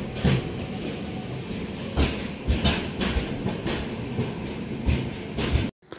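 Pothigai Express passenger coaches rolling past a platform, wheels clacking irregularly over the rail joints above a steady rumble. The sound cuts off suddenly just before the end.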